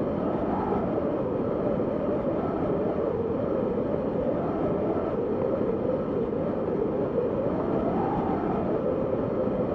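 Wind blowing steadily, a rushing howl that swells and rises a little in pitch about half a second in and again near the end.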